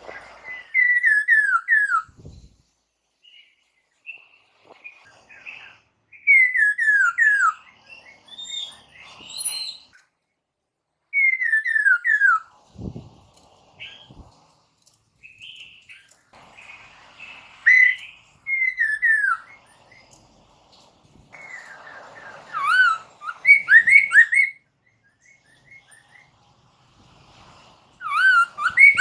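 Poksay mandarin (black-throated laughingthrush) singing: loud phrases of three or four falling, slurred whistles repeated every few seconds, mixed with thin high chirps. A couple of brief low thumps come in between.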